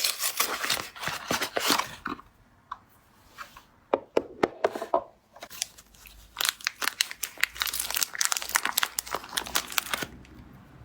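Packaging around soap cubes being crinkled and torn open by hand: dense runs of crackling for the first two seconds and again from about six seconds until near the end, with scattered clicks and a few sharper snaps between them.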